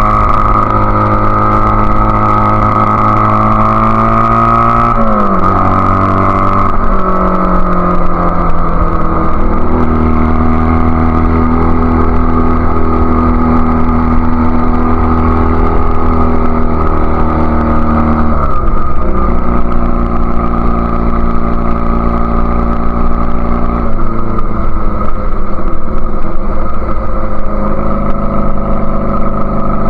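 1999 Honda Rebel CA125's small parallel-twin engine running under way through a BSM/Highway Hawk aftermarket exhaust, freshly jetted with a 102 main jet. Its note drops sharply in pitch about five seconds in and again after about eighteen seconds, climbs back each time and holds steady in between.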